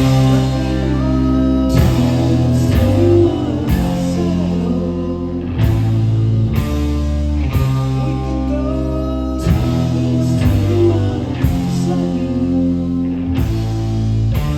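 Live rock band playing an instrumental passage: distorted electric guitars holding chords over bass, with drum hits about once a second.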